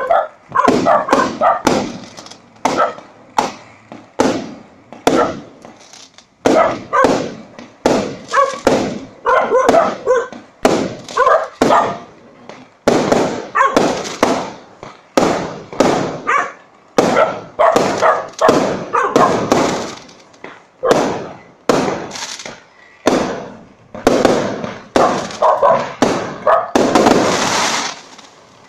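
Fireworks going off in rapid succession, two or three sharp bangs a second, each with an echoing tail, and a denser crackling burst near the end. Dogs bark among the bangs.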